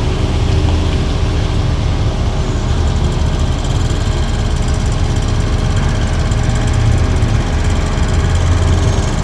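Heavy diesel engine running steadily at low speed, a deep low rumble with no breaks.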